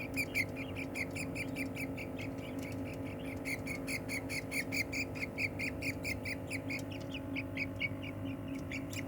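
Budgerigar chicks calling: a fast, steady run of short, high, squeaky cheeps, about five a second, typical of young budgies begging.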